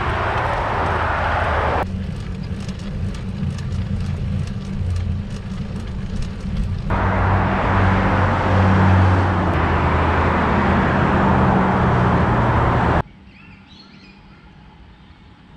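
Busy freeway motor traffic: a steady mix of tyre noise and engine hum from passing cars, in clips joined by abrupt cuts. About thirteen seconds in it cuts to much quieter surroundings on the closed road, with faint bird chirps.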